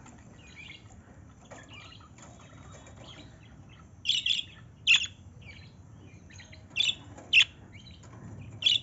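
Birds chirping: a few loud, sharp calls in pairs about halfway through and again near the end, with softer twittering between them.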